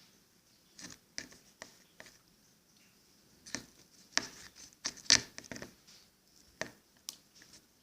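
White-glue slime being mixed and worked by hand: a string of irregular short sticky clicks and squelches, thickest around the middle.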